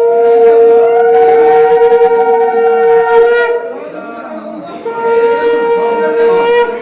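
Conch shells (shankh) blown in long held notes, two at different pitches together for about three and a half seconds, then one sounding alone again about five seconds in.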